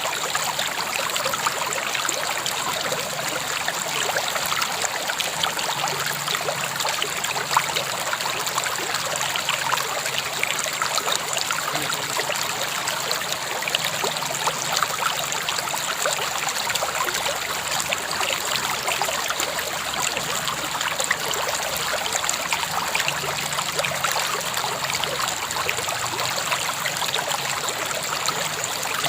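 A river flowing: a steady rush of water with fine trickling and splashing throughout.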